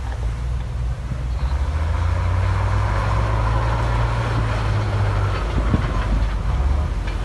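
Diesel engine of heavy earthmoving equipment running under load, growing louder about a second in, with a rushing noise over it through the middle and a few knocks and clanks near the end.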